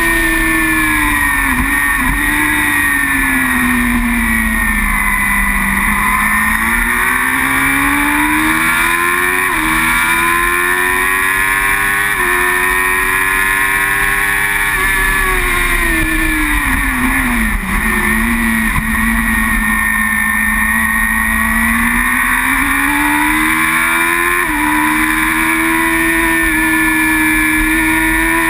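Racing superbike engine at high revs heard from on board, over steady wind rush. Its pitch sinks twice as the bike slows for corners, with quick gear-change blips, then climbs back in steps as the rider accelerates through the gears.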